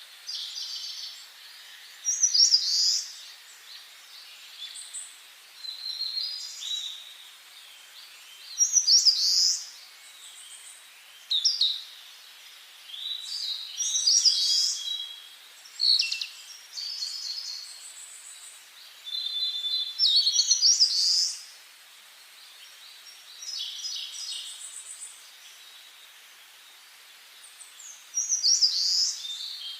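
Songbirds singing: short, high-pitched song phrases every few seconds, several of them sweeping down in pitch, over a faint steady background hiss.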